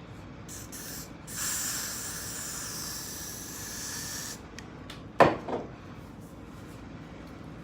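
Aerosol spray can hissing in one steady spray for about three seconds, then a short, sharp clack about five seconds in, the loudest sound here.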